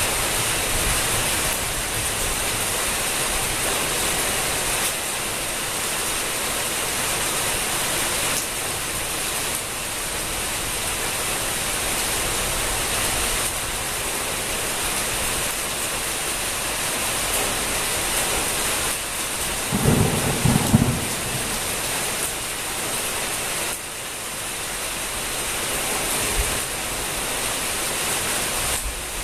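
Steady heavy rain splashing onto wet pavement and puddles. About two-thirds of the way through comes a short, low rumble, the loudest moment.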